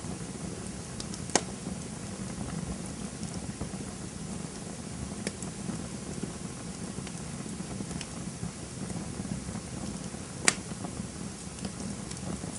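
Campfire burning with a steady low rush of flames and scattered small crackles, with two sharp pops from the wood, one about a second in and a louder one near the end.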